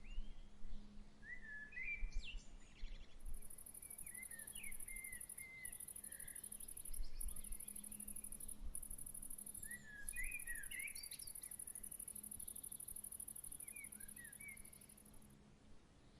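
Birds chirping in short, scattered phrases, joined by a very high, rapidly pulsing insect trill that starts about three seconds in, breaks off briefly a few times and stops near the end. A faint steady low hum runs underneath.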